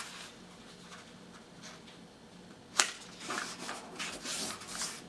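A sheet of paper being folded by hand: quiet at first, then a sharp crackle nearly three seconds in, followed by rustling and rubbing as the edge is pressed down along the fold.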